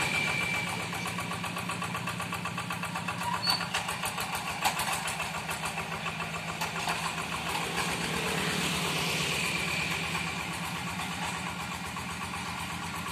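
A paddy-field hand tractor's single-cylinder diesel engine running steadily with a fast, even chugging beat while it works dry ground, a little louder for a couple of seconds past the middle.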